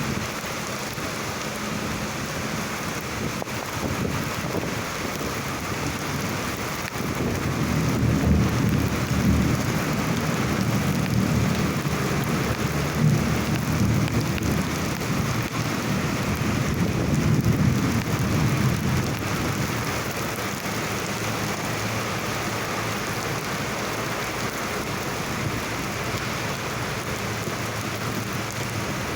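Summer thunderstorm: rain falling steadily, with a long low roll of thunder that swells about a quarter of the way in and rumbles on for about twelve seconds before dying away.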